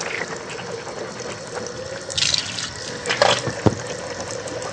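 Water running steadily from a tap, a continuous rushing hiss with a low steady hum beneath it, and a few light knocks and clicks about two and three seconds in.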